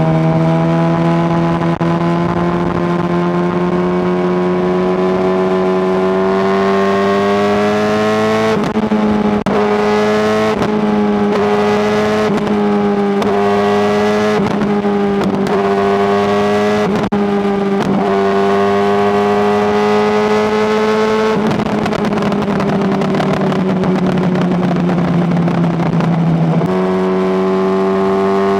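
Honda CBR600RR's inline-four engine running under way, loud, with its note climbing slowly. In the middle the note wavers briefly about once a second. From about 21 s the note glides down with a rougher, noisier sound as the bike slows, then it settles back to a steady note near the end.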